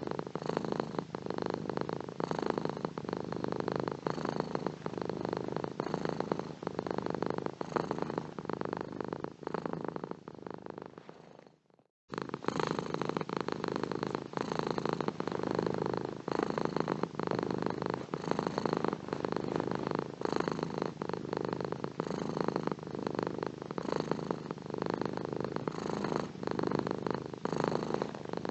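A domestic cat purring steadily as a continuous run of rapid pulses. About eleven seconds in, the purring fades to a moment of silence, then starts again abruptly at full level, as at an edit in the recording.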